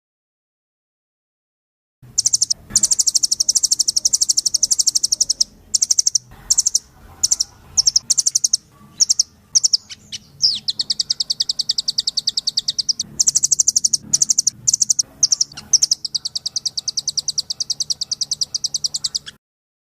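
Rambatan loreng, a nuthatch, singing a fast rapid-fire trill of sharp, high, evenly repeated notes, about ten a second. The song comes in long runs broken by shorter phrases, starts about two seconds in and cuts off abruptly near the end.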